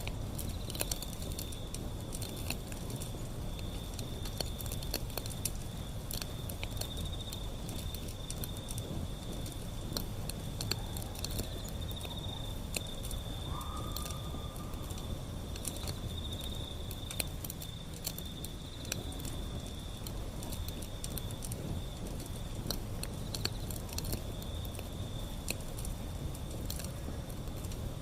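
Wood fire burning, crackling with frequent sharp pops over a steady low rumble. A continuous, faintly pulsing high-pitched trill runs alongside.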